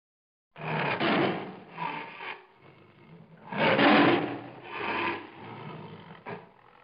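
Lion calling in a series of breathy grunts and roars, starting about half a second in, with the loudest call about four seconds in.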